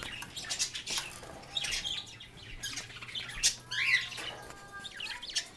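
Pet parrots chirping and squawking in short, scattered calls.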